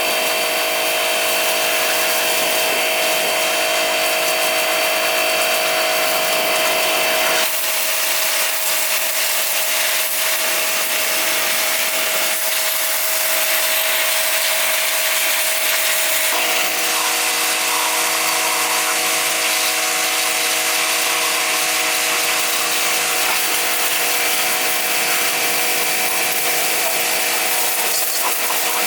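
An electric power tool running steadily, a motor whine over a strong high hiss, with the pitch and tone shifting abruptly about seven and sixteen seconds in.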